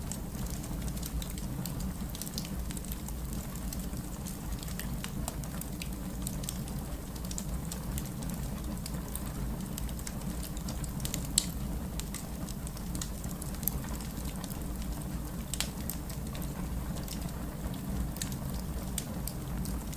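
Fireplace fire crackling: irregular sharp pops and snaps over a steady low rumble, with one louder pop a little past halfway.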